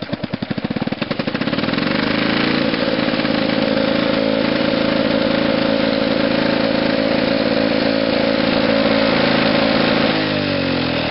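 1969 Lawn-Boy 3055 bricktop two-stroke mower engine on a cold start: it catches with rapid, uneven firing, then settles into a steady, loud run through its old-style exhaust. Near the end the engine speed drops.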